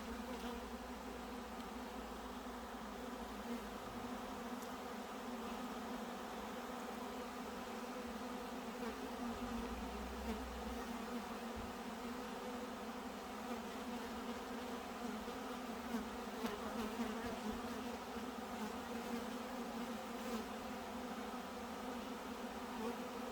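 Steady buzzing hum of a large number of honeybees flying around the hive, orienting and finding their way in after the queen has been located.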